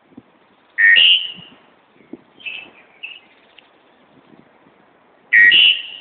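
Bird calling: two loud calls about four and a half seconds apart, each a lower note stepping up to a higher one, with a few softer short notes between them.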